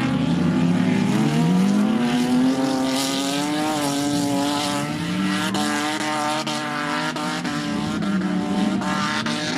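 Several banger racing cars' engines running at speed round the oval. One engine climbs in pitch over the first couple of seconds, then holds steady while others rise and fall beneath it.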